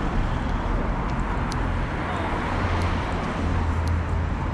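Steady road traffic noise on a street, with a low engine hum that grows stronger about halfway through and a few faint clicks.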